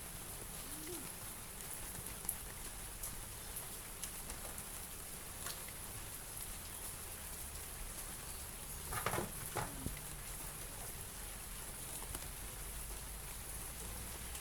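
Light drizzle falling steadily, drops pattering with scattered small ticks, and a brief cluster of louder knocks about nine seconds in.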